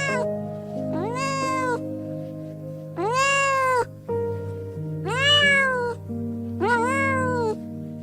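Domestic cat meowing four times, about one call every two seconds, each call rising then falling in pitch, over soft background music.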